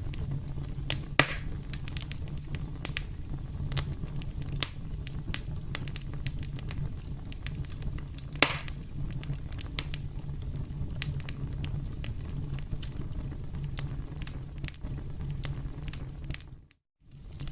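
Campfire crackling: a steady low rumble of burning wood with scattered snaps and pops, two of them louder, about a second in and about halfway. The sound cuts out briefly near the end.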